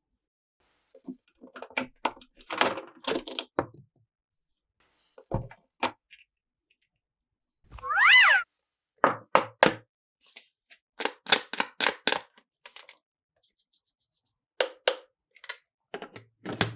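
Plastic toy pieces and packaging being handled, with clusters of light clicks and knocks. About eight seconds in, a short pitched squeak rises and then falls, the loudest sound here.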